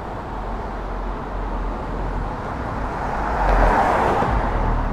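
Street traffic: a car passes, its tyre and engine noise swelling to a peak about three and a half seconds in, over a steady low rumble.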